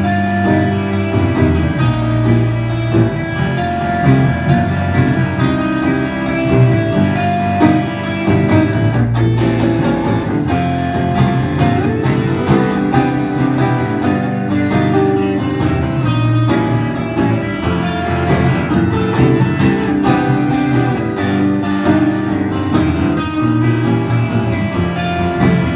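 Live band playing an instrumental break: guitars strumming and picking chords over bass and drums, with no vocals.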